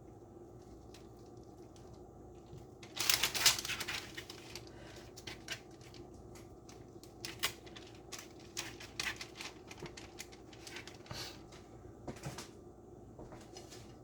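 Kitchen handling noises from rolling filled wrappers by hand: a brief burst of rustling about three seconds in, then scattered light taps and clicks on the counter.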